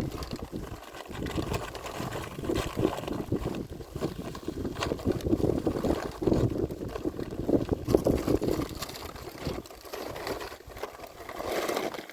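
Gusting wind rumbling on the microphone, rising and falling in irregular surges.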